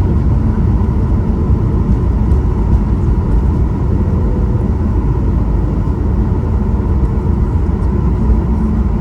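Boeing 737 MAX 8 cabin noise: a steady, loud low rumble from the engines and airframe, with a faint steady whine above it.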